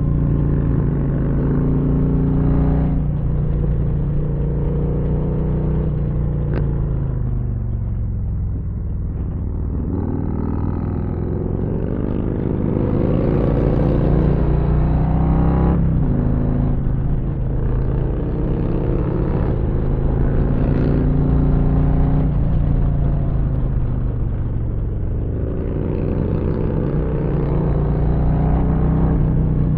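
2022 Harley-Davidson Street Glide ST's V-twin engine under way, rising in pitch as it accelerates and falling as it eases off, several times over, with a sudden drop near the middle as it changes gear.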